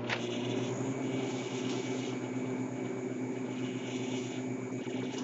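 Microwave oven running while heating oobleck: a steady low electrical hum with the whoosh of its fan.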